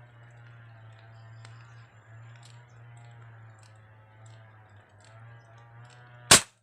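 A single sharp shot from a pre-charged air gun with an attached air tank, about six seconds in, over a faint steady background with light scattered clicks.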